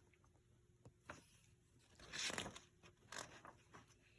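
Faint papery rustle and scrape of a picture book's page being turned, about two seconds in, after a light click; otherwise near silence.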